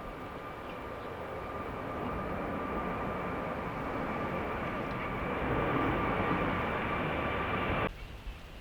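Jet airliner engines with a steady high whine over a wide rush of engine noise, growing louder as the aircraft approaches. The sound stops abruptly about eight seconds in.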